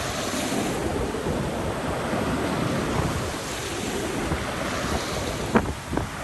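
Storm wind buffeting the microphone over waves washing ashore, a steady rushing noise, with two sharp wind thumps on the microphone near the end.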